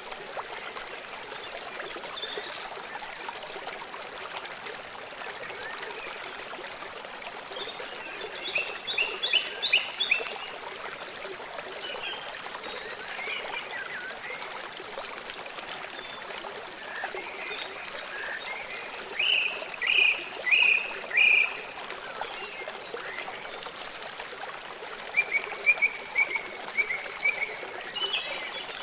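A small stream trickling steadily, with songbirds calling over it in short phrases of repeated notes; the loudest is a run of four notes about two-thirds of the way through.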